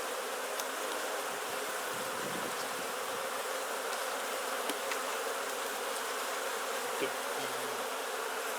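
Honeybee colony buzzing steadily from the open Langstroth hive, a dense hum, with a few faint clicks and a small knock about seven seconds in.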